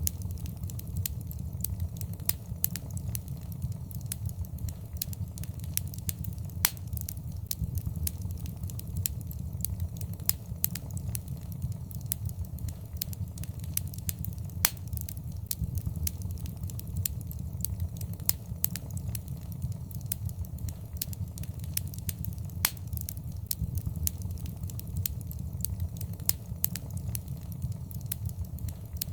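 Wood fire crackling and popping in a fireplace: a steady low rumble of flames with frequent irregular sharp pops, a few louder than the rest.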